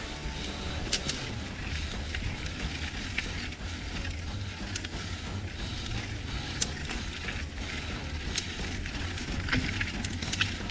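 Mountain bike being ridden along a dirt trail: a steady low rumble of wind and tyres, with frequent short clicks and rattles from the bike over rough ground.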